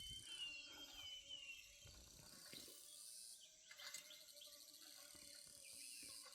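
Faint countryside ambience: a steady high chirring of insects, with a few short bird chirps in the first second or so.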